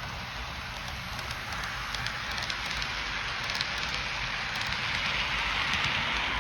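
HO-scale F40PH model locomotive pulling three Comet coaches around a layout, its wheels rolling on the track in a steady hiss with scattered small clicks. It grows louder in the second half.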